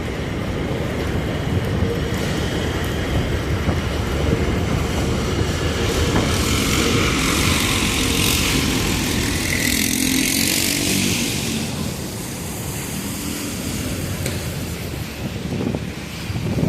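Steady rumble of subway trains and street traffic at an elevated station, with a loud hiss from about six to twelve seconds in.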